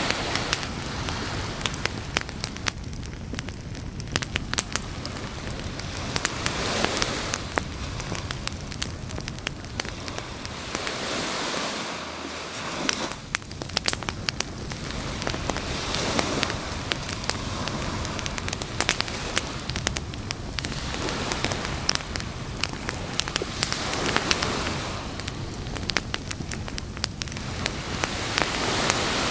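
Campfire crackling with many sharp pops, over the wash of waves on a beach that swells up every several seconds.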